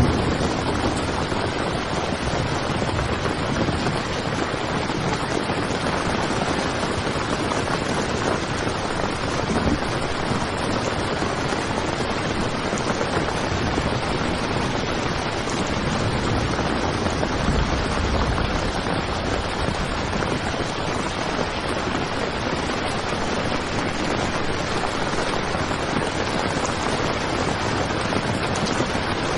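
Heavy rain falling on a tent, a steady dense patter with a few brief low rumbles partway through.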